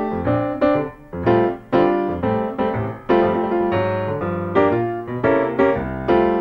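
Solo piano music accompanying a silent film, playing struck chords that ring and decay, roughly two a second.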